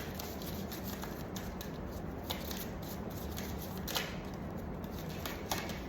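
Tarot cards being handled: a few light, irregular taps and snaps of cards over a steady low hum in the room.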